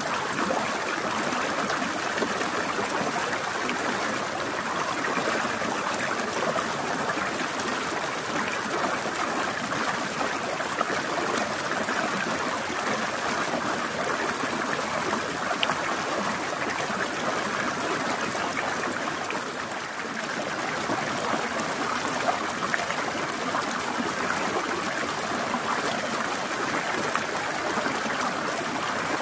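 A small forest stream flowing over rocks, trickling and gurgling steadily. The sound dips slightly about two-thirds of the way through.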